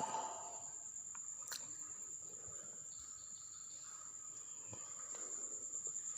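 An insect's steady high-pitched trill, unbroken throughout, with a faint click about a second and a half in.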